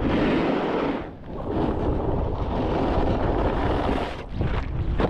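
Heavy wind buffeting the microphone mixed with a snowboard's edges scraping over snow, dropping off briefly twice.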